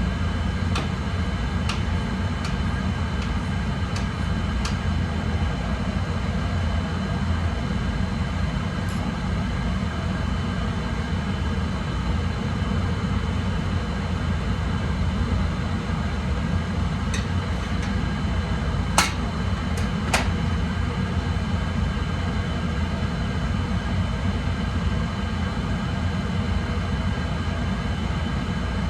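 Oil burner of a home heating boiler firing steadily, a constant low flame-and-blower roar during a combustion test. A few light clicks sound near the start, and two sharper clicks about two-thirds of the way through.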